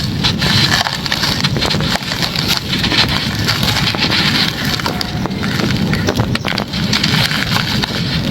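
Dry stony chunks being crushed and crumbled, a dense run of crunching and crackling with sharp snaps, with wind on the microphone.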